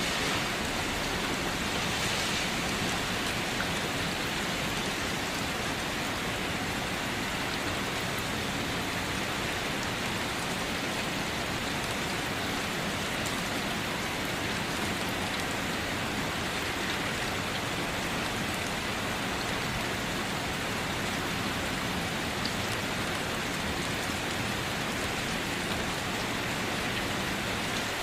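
Steady rain falling, an even hiss of drops on surfaces with no change in intensity.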